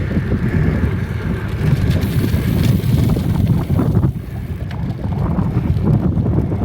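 Wind rumbling and buffeting on a phone microphone carried on a moving bicycle, an uneven low roar that eases briefly about four seconds in.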